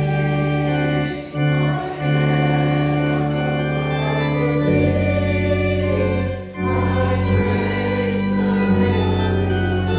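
Organ music: long sustained chords that move from one to the next, with short breaks between phrases.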